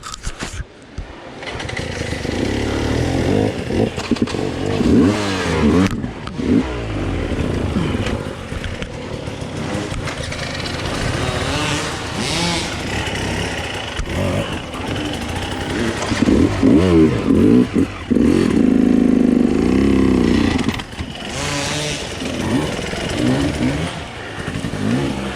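Dirt bike engine ridden on a trail, its pitch rising and falling again and again with the throttle and gear changes, loudest about two-thirds of the way in.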